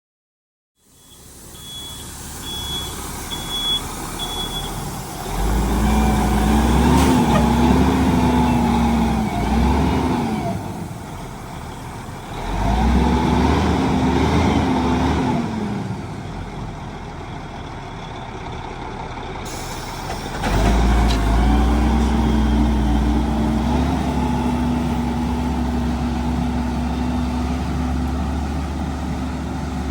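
A heavy diesel dump truck's engine running and revving up and down in three surges as it delivers a load of gravel, with a reversing beeper sounding briefly near the start.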